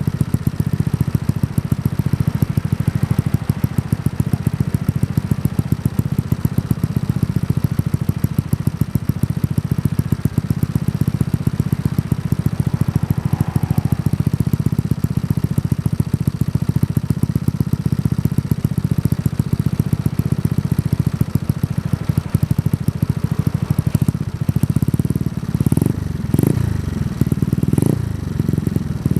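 Yamaha Mio scooter's single-cylinder engine idling through a Kenochi Racing K1 aftermarket exhaust, a steady rapid pulsing, with a few quick throttle blips near the end.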